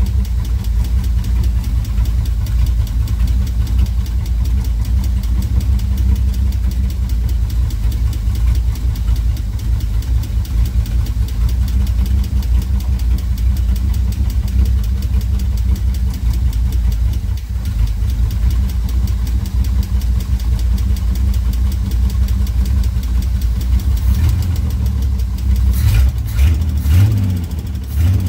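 Opel Commodore straight-six engine idling steadily with its carburettor open, test-running on freshly replaced spark plugs. Near the end there are a few clicks and the engine note shifts as the carburettor throttle is worked by hand.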